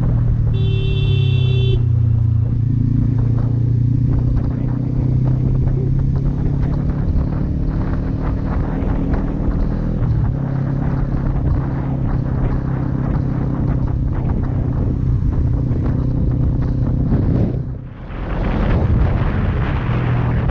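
Kawasaki Z400's parallel-twin engine running steadily while riding, with a rushing noise over it. A short, high beep sounds about a second in, and the sound dips briefly near the end.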